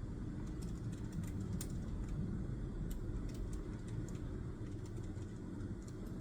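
Steady low rumble of background noise, with faint, scattered light ticks from work at a desk, such as a pen or keys being tapped.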